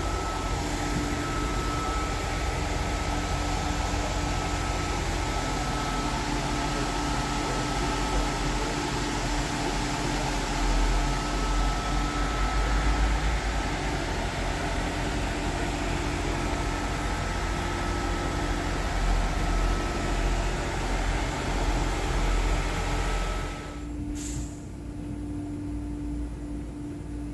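Electric bus (Caio Millennium IV body on a Scania K310 chassis converted to electric drive by Eletra) on the move: steady road and running noise with a thin steady whine. Near the end the noise drops away suddenly and the whine stops.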